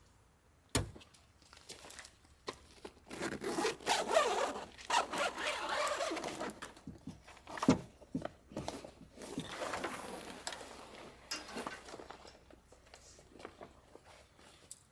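Close handling sounds: material being rubbed, pulled and rustled in long stretches, with a couple of sharp knocks, the first about a second in.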